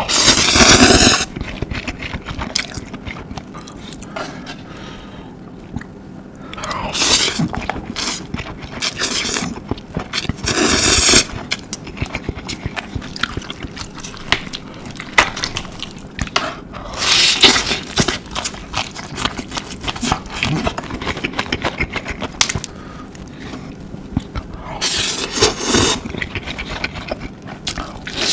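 A person slurping noodles, with several loud slurps spread through the stretch and soft chewing and utensil clicks between them.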